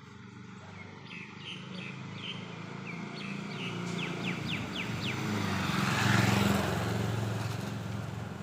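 A bird calling in a series of short, sharp, falling chirps that come faster and faster for a few seconds, while a motor vehicle passes, its engine hum growing louder to a peak about six seconds in and then fading.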